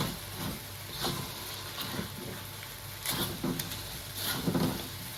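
Spatula stirring chicken and potato pieces through curry paste frying in a pot, with irregular scraping strokes over a low sizzle. The ingredients are being mixed until combined before water goes in for the gravy.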